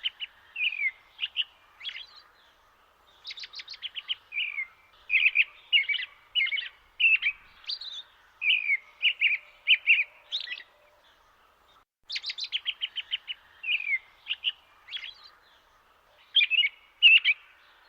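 A songbird singing: phrases that open with a rapid trill of short notes and go on into quick slurred chirps, with a brief pause before the phrase starts again about twelve seconds in.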